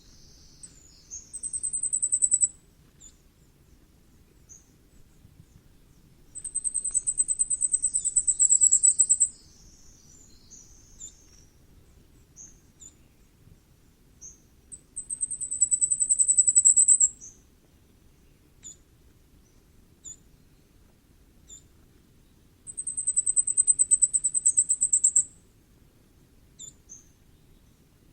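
Common firecrest singing: four songs, each a fast run of very high, thin notes that grows louder, with single high call notes scattered in the pauses.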